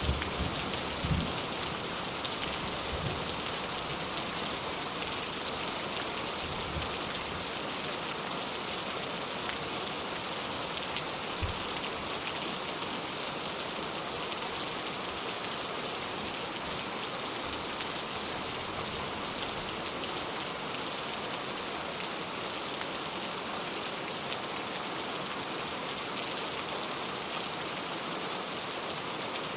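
Steady rain falling, an even hiss of drops that holds constant throughout, with a few brief low thumps in the first dozen seconds.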